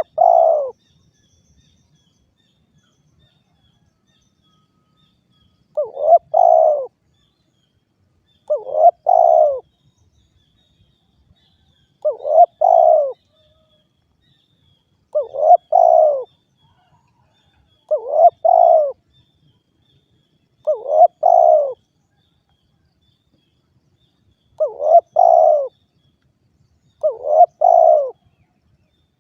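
Spotted dove (derkuku) cooing: a two-part coo phrase, a short note followed by a longer one, repeated about every three seconds. It falls silent for about five seconds near the start, then gives eight phrases in a steady rhythm.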